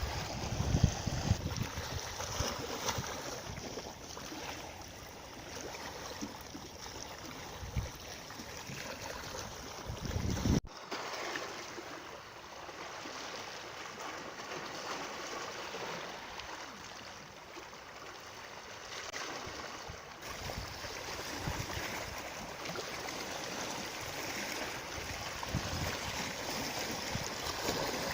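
Steady rush of running water, with low wind buffeting on the microphone over the first ten seconds. The recording cuts abruptly about ten seconds in, and the buffeting drops away after the cut.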